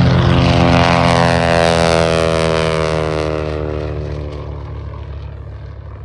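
Grumman TBM Avenger's Wright R-2600 radial engine and propeller making a fly-by: the engine note drops in pitch as the plane passes and fades away as it recedes.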